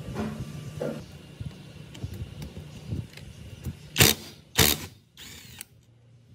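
Workshop tool sounds: a low machine hum that fades about a second in, scattered mechanical clicks, then two short loud bursts of noise about four seconds in.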